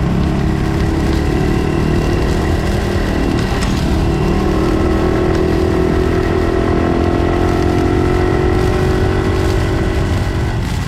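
Honda Cross Cub's small single-cylinder four-stroke engine running under way, its pitch rising gently through the middle and then holding steady, with low road and wind rumble.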